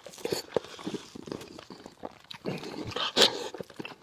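Close-miked eating of braised fish head: wet chewing and lip smacking with irregular small clicks, and a louder wet smack about three seconds in.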